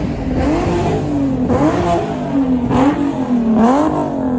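Car engines revving, the pitch rising and falling, with several sharper revs about a second apart near the end.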